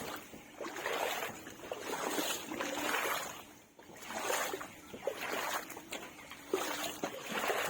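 Water sloshing and splashing in a regular stride-like rhythm, about once a second: a person wading through shin-deep floodwater.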